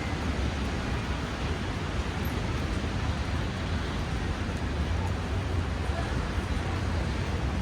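Steady city street noise in snowy weather: a hiss of traffic with a deep low rumble, the kind that wind and passing vehicles leave on an outdoor microphone.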